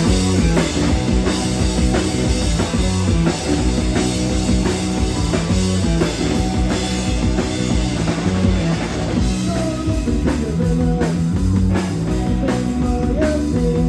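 Rock band playing live, loud, in an instrumental passage driven by a drum kit keeping a steady beat.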